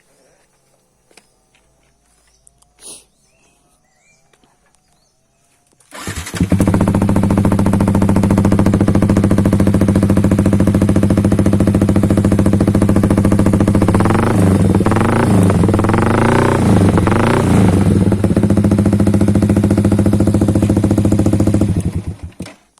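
Yamaha R15 V3's 155 cc single-cylinder engine through an Austin Racing aftermarket exhaust: it starts about six seconds in after a quiet stretch with a few faint clicks, idles loud and steady, is revved in several short blips in the middle, and is switched off shortly before the end.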